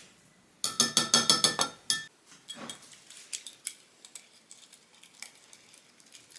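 A kitchen utensil clinking rapidly against a ringing bowl or jar, about seven quick strikes a second for roughly a second and a half, as when stirring or whisking a sauce. This is followed by scattered light clinks and taps.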